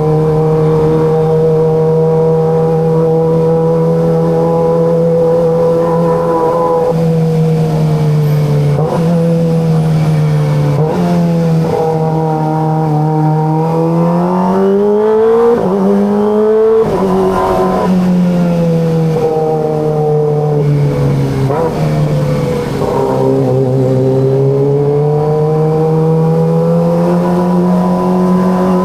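Kawasaki ZX25RR's 249 cc inline-four engine running under riding load, heard with its exhaust. It holds steady revs at first, then changes pitch with a few throttle changes, climbs in revs about halfway through, falls back, and rises steadily again near the end.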